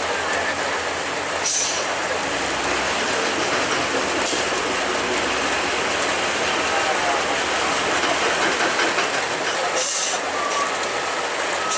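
Heavy truck traffic on a wet road: a steady, loud rattling mechanical noise with a continuous hiss.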